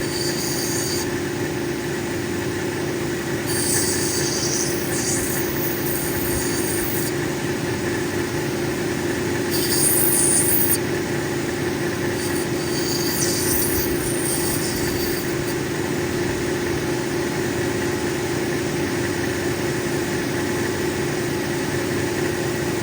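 Cabbing machine running with a steady hum while an opal is pressed against its spinning diamond wheel to bevel the edge; the grinding gives a high hissing squeal in four stretches of one to three seconds, stopping after about fifteen seconds.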